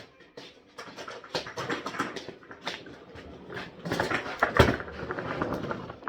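Irregular knocks, clicks and rattles of a Miele Blizzard CX1 canister vacuum being brought in and handled, its wheels rolling on the floor, with the motor off.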